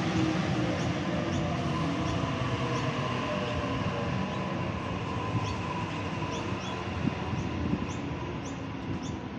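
Double-deck electric suburban train moving along the platform: a steady rolling rumble with a low hum. Short high squeaks come closer and closer together in the second half.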